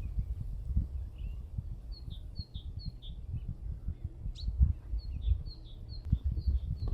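A small bird sings runs of short, falling chirps, about three a second, in two phrases. Underneath is a steady low rumble with soft thumps, and there is one sharp click about four seconds in.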